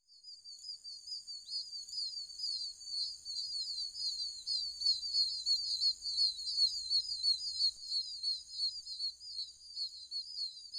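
Small birds twittering in a continuous string of quick, high chirps.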